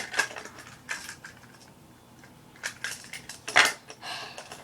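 Plastic wrapping and toy packaging being picked at and pulled, giving a string of crinkles, crackles and clicks, with the loudest crackle about three and a half seconds in.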